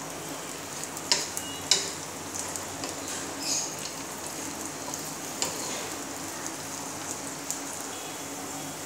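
Sliced almonds, pistachios, cashews and chopped dried dates frying in ghee in a pan, a steady sizzle, while a wooden spatula stirs them, with a couple of sharp knocks of the spatula on the pan about a second in.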